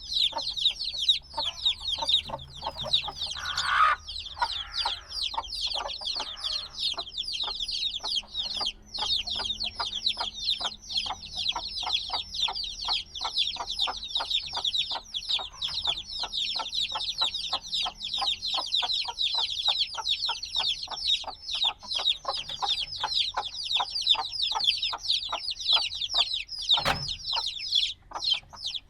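A brood of chicks a few days old peeping continuously, in a dense chorus of rapid, high, falling peeps. A single bump sounds near the end.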